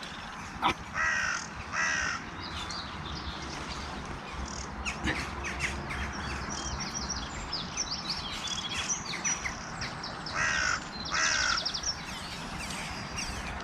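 Wild birds calling: two pairs of short calls, one about a second in and one about ten seconds in, with smaller birds chirping and trilling throughout.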